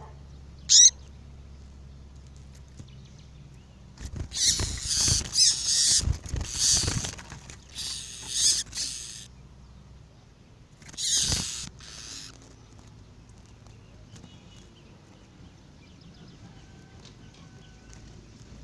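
Double-collared seedeater (coleiro) singing: a single sharp chirp just under a second in, then loud, high, rapid twittering phrases for about five seconds, and one more short phrase around eleven seconds.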